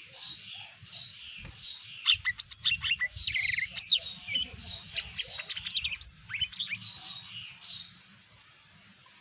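Lesser green leafbird (cucak ijo mini) singing: soft, evenly repeated chirps, then about two seconds in a loud, fast burst of varied chirps and sharp sweeping whistles that dies away near the end.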